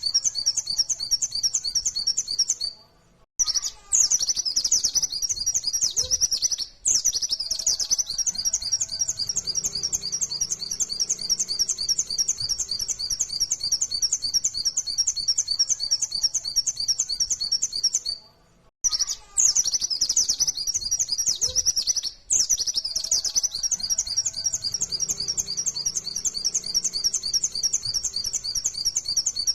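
A white-eye (pleci, Zosterops) sings a fast, unbroken run of high, rapidly repeated chirps, the rapid-fire 'nembak' song. The song breaks off briefly about 3 seconds in and again about 18 seconds in, and the same passage repeats roughly every 15 seconds, as in a looped recording.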